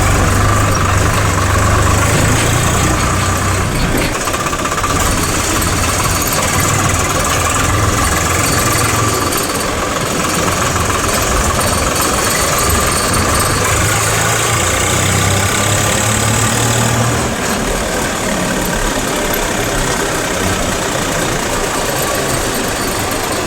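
Diesel engine of heavy machinery running steadily, with a low rumble that swells in the first half, swells again about two-thirds through, and eases near the end.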